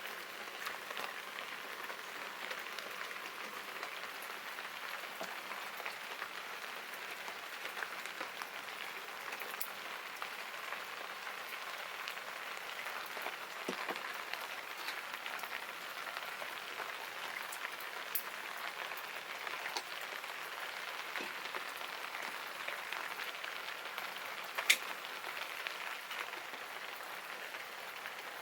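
Steady rain falling, an even patter, with scattered small sharp clicks; one much louder click about three-quarters of the way through.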